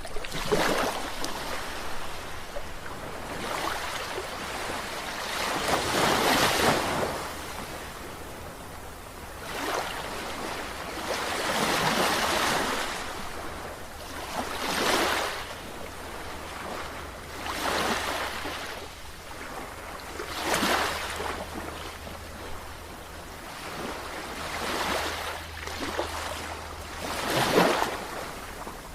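Sea waves washing in, a surge of surf every two to three seconds, each swelling and fading away.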